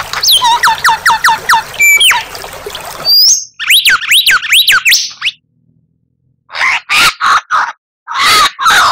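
Recorded songbird song spliced together for a bird-training (masteran) track. A run of quick downward-sweeping whistles cuts abruptly to rising and falling whistled notes. After a gap of about a second comes a series of harsh rasping chatter notes.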